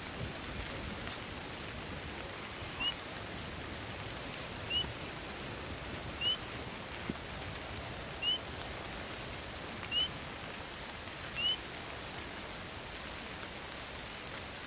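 Steady hiss of rain in a forest, with six short rising call notes from a small animal at even spacing, about one every one and a half to two seconds.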